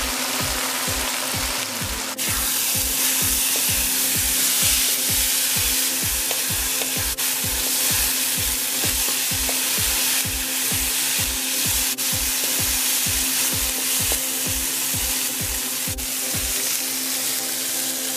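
Shredded salted mackerel, tomato and onion sizzling in hot olive oil in a nonstick wok as it fries down until the liquid dries out, with a wooden spatula stirring and scraping through it. The sizzle gets louder about two seconds in. Background music with a steady beat plays underneath.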